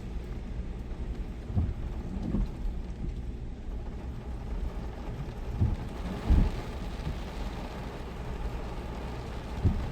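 Heavy rain in a wind storm: a steady low rumbling wash of rain and wind noise, with several dull thumps, the loudest about six seconds in.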